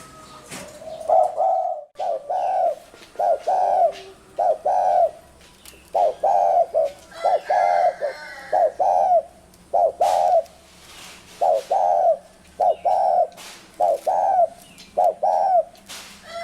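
Spotted dove giving its 'gù' coo: a long run of short, rolling coos, many in quick pairs, with a brief break about two seconds in.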